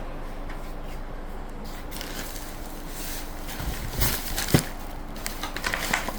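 Rustling and crackling of packaging and parts being handled, with a couple of sharp knocks about four seconds in, over a steady low hum.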